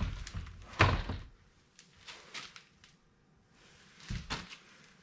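Knocks and thumps from the removed plastic door trim panel being handled: a loud thump about a second in, a few light clicks, and another thump near the end.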